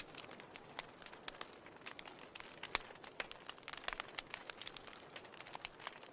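Wood fire crackling in a fireplace: irregular sharp pops and snaps over a soft hiss, with one louder pop a little under three seconds in.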